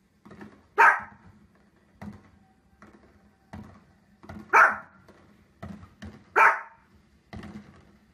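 A small dog barking three times: sharp single barks a few seconds apart. Between them come fainter booms and pops of fireworks from the television.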